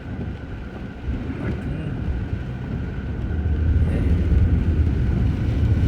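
Road traffic noise with a low engine rumble that grows louder about three seconds in.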